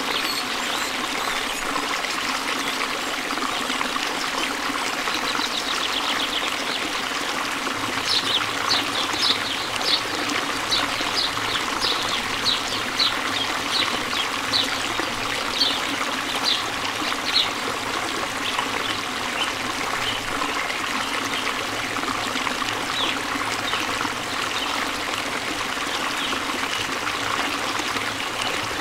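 Stream water flowing and trickling steadily. About eight seconds in, a run of short high sounds comes through at roughly two a second and stops after about ten seconds.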